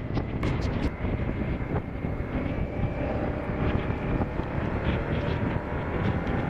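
Motorcycle running along the road at a steady pace, engine rumble mixed with wind and road noise, with a few light clicks within the first second.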